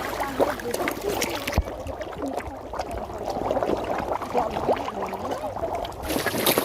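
Lake water splashing and churning at the surface, as from many large fish thrashing over food.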